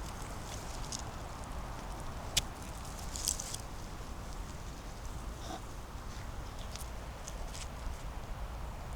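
Footsteps on the forest floor, with scattered sharp twig snaps (the loudest about two and a half seconds in) and short rustles of leaves and litter over a low steady rumble.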